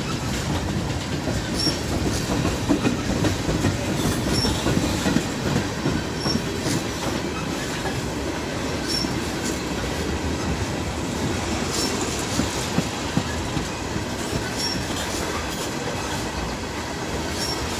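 A long CSX freight train of tank cars rolling past, a steady rumble of wheels on rail with repeated clicks every second or two as the wheels cross rail joints.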